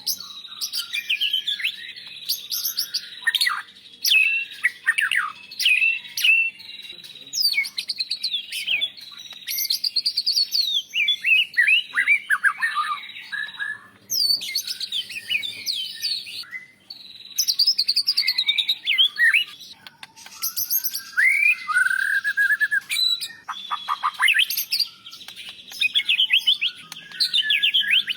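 White-rumped shama (murai batu) singing a long, varied song of rapid whistled and warbled phrases, full of quick rising and falling notes, with imitations of other birds woven in. The phrases come in bursts a few seconds long with short pauses between.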